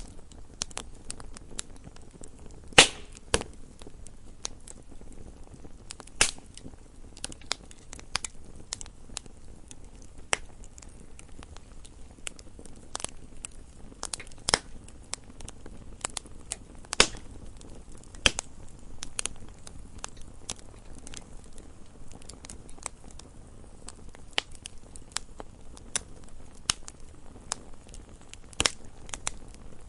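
Wood fire in a fireplace crackling, with irregular sharp pops and snaps over a low steady hiss of burning; the loudest snaps come about three seconds in and just past halfway.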